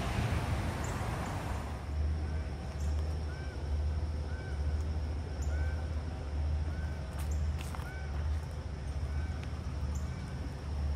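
A bird repeats a short chirp-like call over and over, about every half second, over a steady low rumble. A broad rushing noise fades out over the first couple of seconds.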